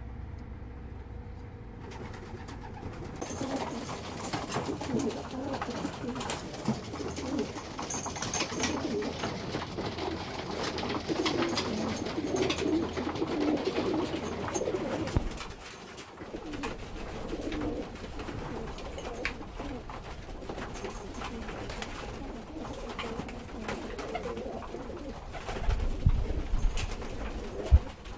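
Racing pigeons cooing together in an enclosed loft, with many small clicks and scuffs among them. A few loud low thumps near the end.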